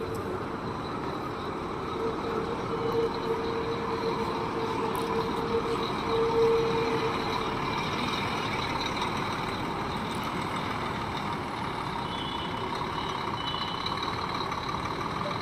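A Scania coach running, with steady engine and road noise; a steady low tone sounds for about five seconds starting around two seconds in, and a few faint short high beeps come near the end.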